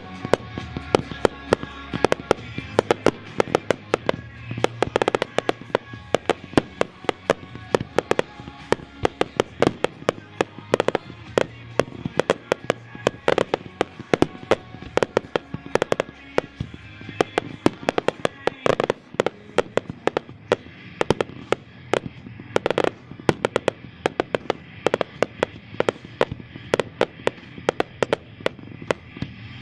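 Consumer fireworks cakes firing: a rapid, irregular string of sharp shots and bangs, several a second, with background music underneath.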